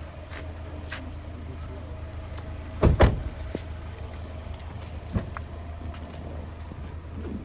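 A car door slammed shut, two heavy thuds close together about three seconds in, with a lighter knock a couple of seconds later, over the steady low hum of a car.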